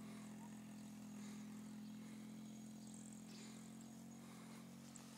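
Faint, steady engine hum that slowly fades.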